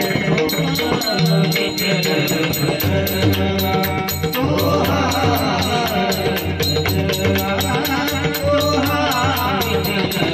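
Marathi devotional bhajan: a man sings over sustained accompaniment and pakhawaj drum, with small hand cymbals clashing about four times a second. The voice comes in about halfway through.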